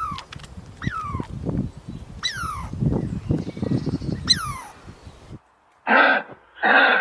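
Animal calls: a run of short calls, each falling in pitch, about one every second and a half over a low rumbling noise. Near the end the clip changes suddenly to a different animal giving short, rough, hoarse calls, two of them.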